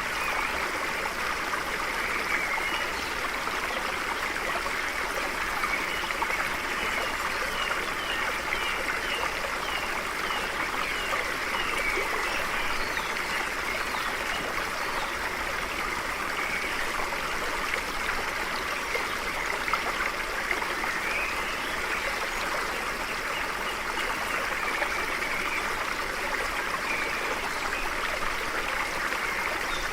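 A stream running steadily, with small birds chirping over it; a run of quick repeated chirps comes about a third of the way through.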